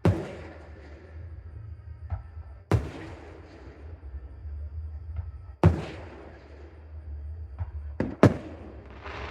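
Aerial firework shells bursting overhead: three loud booms about three seconds apart, each followed by a fading rumble, then two sharper bangs in quick succession near the end.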